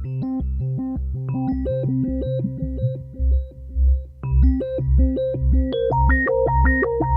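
Kurzweil K2500R synthesizer playing a factory preset dry, without effects: a keyboard sound in a quick, repeating pattern of short notes over a pulsing bass line, which grows stronger about three seconds in.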